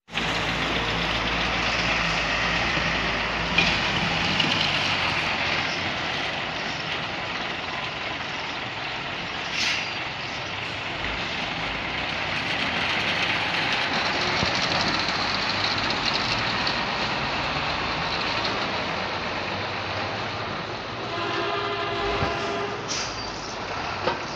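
Steady noise of heavy road traffic, with a vehicle horn blowing for about two seconds near the end.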